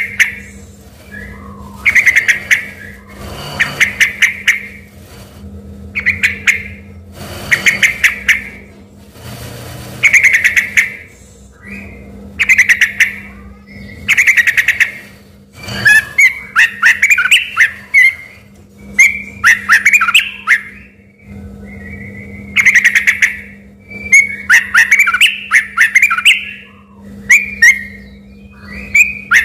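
Yellow-vented bulbul (trucukan) singing loudly in short whistled phrases repeated every second or two, breaking into fuller, fast chattering runs from about halfway on. Its song carries phrases like those of the white-rumped shama. A faint steady hum runs underneath.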